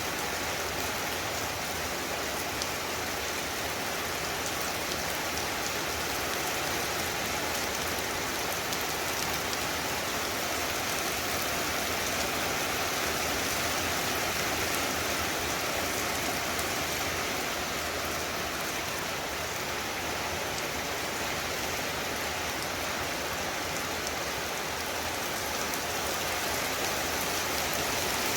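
Very heavy rain falling in a steady, dense hiss, with no change in strength.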